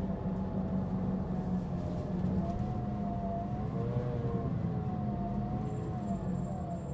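Mitsubishi Fuso Aerostar LKG-MP37FK city bus running under way, heard from inside, its diesel engine humming steadily. Over it a strong whine wavers up and down in pitch: the heavy abnormal noise (異音) this bus was giving off.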